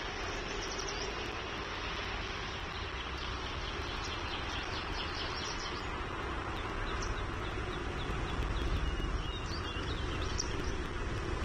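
Steady outdoor background rumble and hiss with faint, high bird chirps scattered through it, in a short run near the end.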